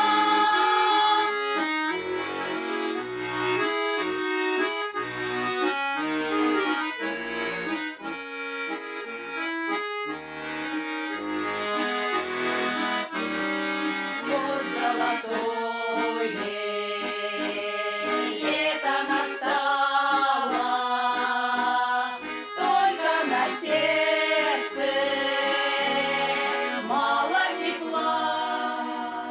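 Accordion playing a folk tune in a Russian folk song arrangement, with a melody line over held chords.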